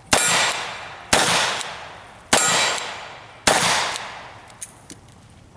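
Four gunshots about a second apart, each followed by a long ringing fade, with the clang of steel targets being hit.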